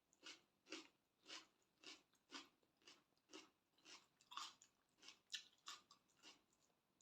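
A person chewing a mouthful of spicy glass noodle salad with wide glass noodles, faint, at about two chews a second.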